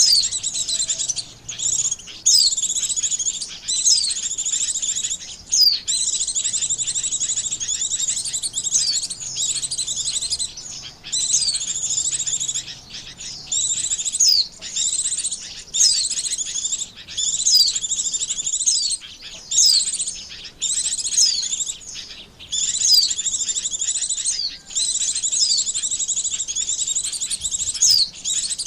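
White-eye (pleci) song played as a lure call: fast, high, continuous twittering in phrases of one to a few seconds, broken by short gaps and with quick sliding notes.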